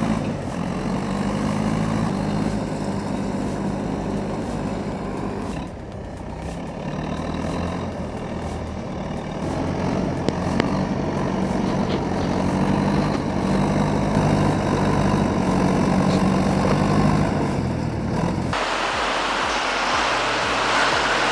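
Heavy vehicle engine running, its pitch shifting a little as it works. Near the end the sound cuts abruptly to a louder, noisier rumble.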